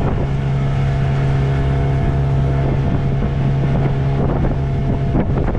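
Motorboat engine running steadily at speed, a constant low drone, with wind buffeting the microphone.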